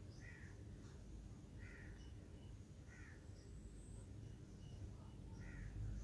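Faint bird calls: four short calls spread over several seconds, over a steady low hum.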